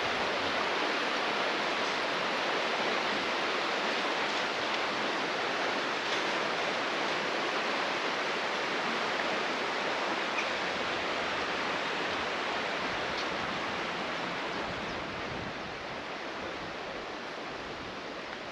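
Steady rush of flowing water, an even hiss with no breaks, easing off a little near the end.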